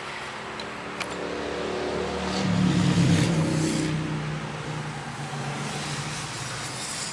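A car engine nearby grows louder to a peak about three seconds in, then settles into a steady low hum. There is a single sharp click about a second in.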